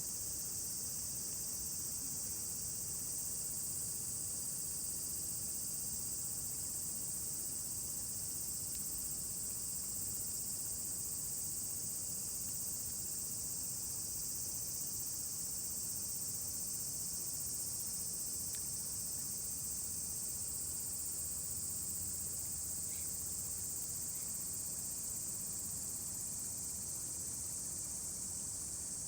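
A dense chorus of insects, a steady high-pitched drone that never lets up, with a few faint clicks now and then.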